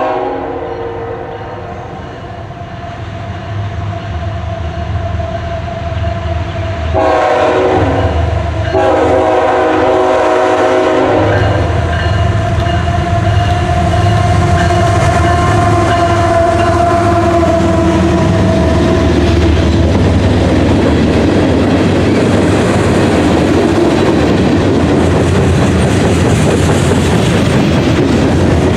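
A freight train's diesel locomotives passing close by. A multi-note air horn blast fades away at the start, and the horn sounds again in two blasts about seven and nine seconds in. Then the locomotives' low engine rumble goes by, followed by the steady rolling clatter of the freight cars' wheels.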